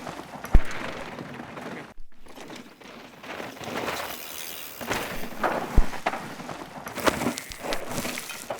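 Mountain bikes riding through a dusty rock garden: tyres crunching and sliding on loose dirt, with sharp knocks of wheels striking rocks.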